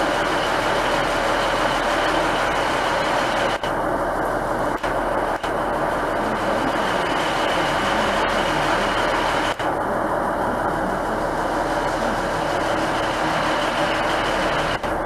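A train running steadily: a continuous rumble with a thin, steady whine over it, broken by a few very brief dropouts.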